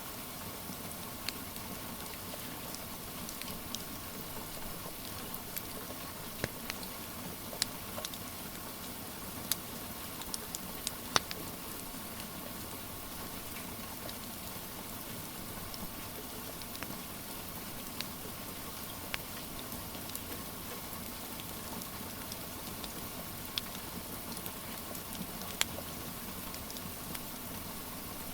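Steady rain hiss with a wood fire crackling: scattered sharp pops over the rain, the loudest about eleven seconds in.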